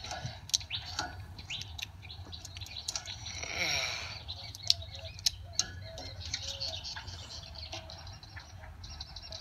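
Small birds chirping, many short sharp calls scattered throughout, with a brief rushing swell about three and a half seconds in.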